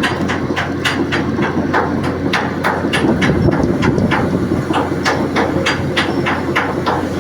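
Anchor winch gearbox running, turning the shaft while a cutting tool is held against it to machine it in place. A steady hum with a rhythmic clacking about four times a second.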